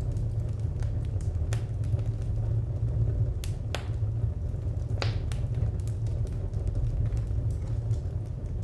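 Wood fire crackling: scattered sharp pops and snaps over a steady low rumble, with a few louder pops in the middle.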